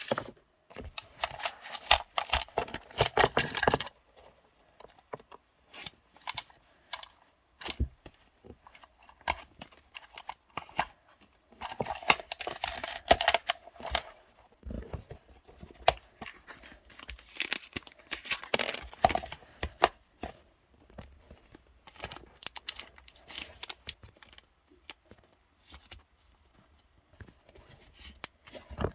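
Something crinkly being torn and handled close by, in irregular bursts of crackling with small clicks and taps between.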